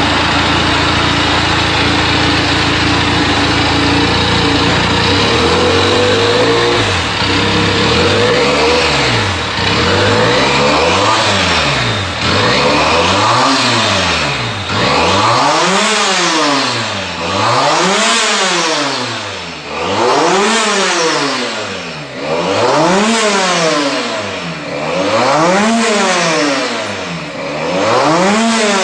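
Benelli TNT300's parallel-twin engine through a loud aftermarket exhaust, running steadily, then revved over and over from about a quarter of the way in: nine or so throttle blips, each pitch rising and falling, about one every two and a half seconds.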